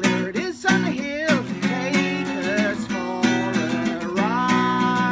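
Bouncy acoustic pop song: a strummed acoustic guitar with a voice singing the tune, rising to a held note about four seconds in.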